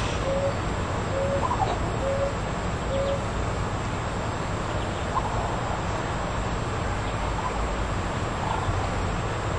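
A bird calling a run of short, evenly spaced low hoots, about one a second, that stop about three seconds in. A few faint higher chirps come later over a steady background hiss and rumble.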